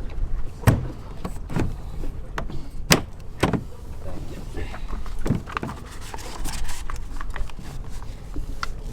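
Irregular hollow knocks and thumps from plastic kayaks being handled on a boat deck, over a steady low rumble.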